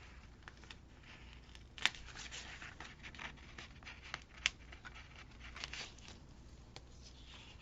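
Faint rustling and small clicks of paper being handled: a cut-out paper bird being lifted and peeled up off a planner page, with a couple of sharper ticks about two seconds in and again near the middle.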